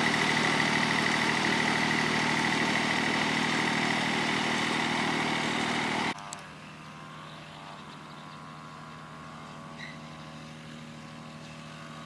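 An engine running steadily, which cuts off abruptly about six seconds in, leaving a quieter steady hum.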